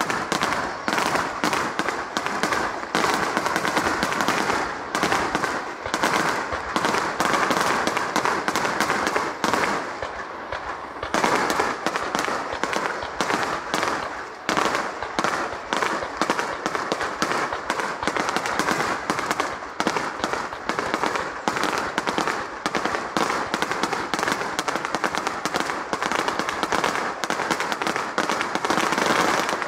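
Fireworks display: aerial shells bursting in a rapid, dense string of bangs, with a short lull about ten seconds in before the barrage picks up again.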